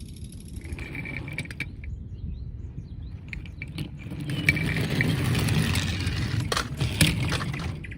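Plastic toy vehicles being handled: scattered clicks and rattles, with a louder stretch of rolling and mechanical whirring from about halfway to near the end.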